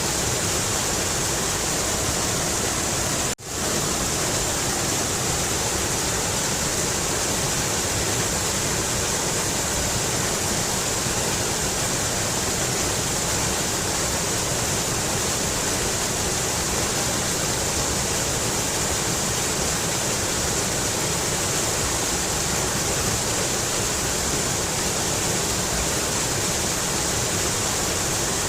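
Mountain river rushing: a steady hiss of flowing water, strongest in the high range. It cuts out for an instant about three and a half seconds in.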